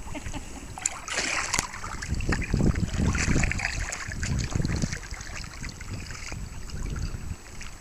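Kayak paddles dipping and water splashing and trickling off the blades, with a low, uneven rumble underneath.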